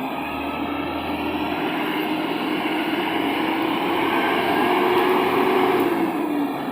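Scania heavy truck's diesel engine labouring up a steep climb under the load of a motor grader, growing louder to a peak about five seconds in and easing off near the end.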